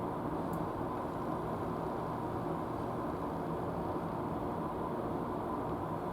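A steady mechanical hum with a faint constant whine, unchanging throughout.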